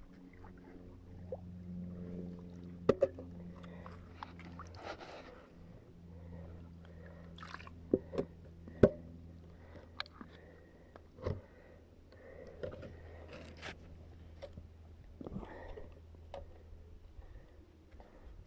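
Sharp metal knocks and scraping from a fishing magnet and the scrap it has pulled up. There is one loud knock a few seconds in, a cluster of three around the middle, and another shortly after, over a steady low hum that fades out about two-thirds of the way through.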